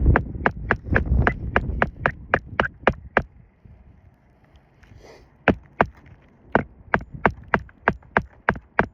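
Hammer striking a roofing nail through an asphalt shingle, in quick steady blows about three a second. The hammering stops for about two seconds in the middle, then starts again.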